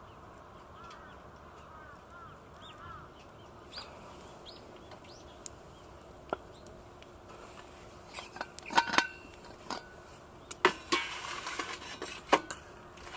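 Birds chirping a few times in the first seconds. Then, from about eight seconds in, a series of sharp metallic clanks and clatters with a brief ring, as metal camp gear is handled.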